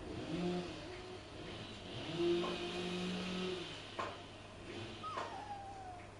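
Three-week-old Rhodesian Ridgeback puppies whining and squeaking in short calls, with a longer low whine in the middle and a falling squeal near the end.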